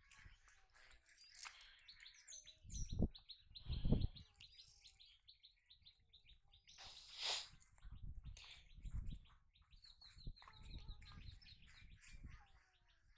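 A bird chirping in a long run of quick, evenly repeated high notes, with a few low thumps and a brief rustle.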